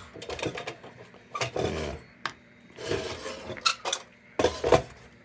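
A tool scraping and rubbing on the tin of an old Dietz Blizzard lantern in short, irregular strokes, with a few sharp metallic clinks, while the silver-painted surface is tested to see what shape the metal is in.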